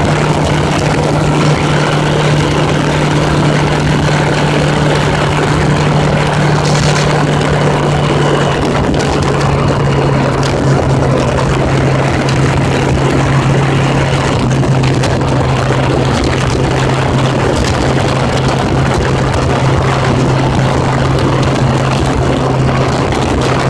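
1980s Honda Gold Wing motorcycle engine running at a steady cruise, its note dropping slightly about halfway through and then holding, with heavy wind rush and road noise.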